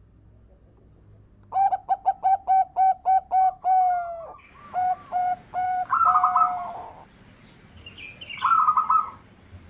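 Zebra dove (perkutut) cooing: a quick run of short, clipped notes about a second and a half in, a few more after a brief pause, then a higher, shorter call near the end.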